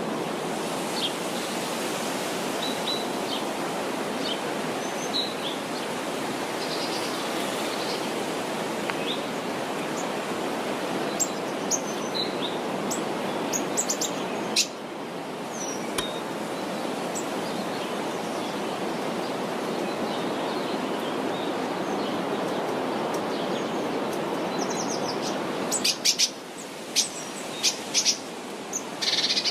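Songbirds chirping and calling in short scattered notes over a steady rushing background noise, with a flurry of sharp chirps near the end.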